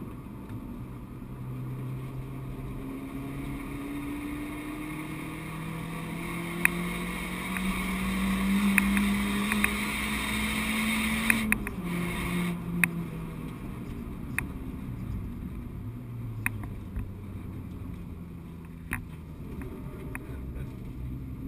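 Renault Clio 172's 2.0-litre four-cylinder engine heard from inside the cabin on track, pulling up through the revs with a steadily rising note to its loudest point about halfway through, then cutting off sharply as the throttle lifts. The revs then fall away and pick up again, over tyre and wind noise with scattered small clicks and knocks.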